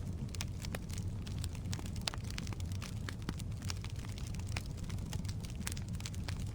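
Firewood burning in a fireplace: irregular sharp crackles and pops, several a second, over a steady low rumble of the flames.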